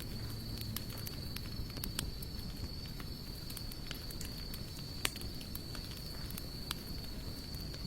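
Campfire of sawtooth oak and mixed hardwood logs burning: scattered small crackles and pops over a low rumble of flames, with one sharper pop about five seconds in.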